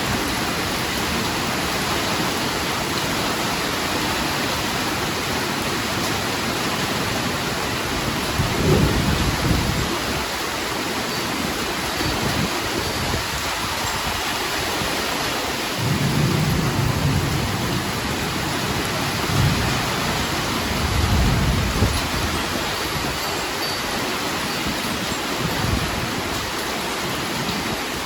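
Heavy, steady rain with rolling thunder. Low rumbles swell up about a third of the way in, then come again several times in the second half.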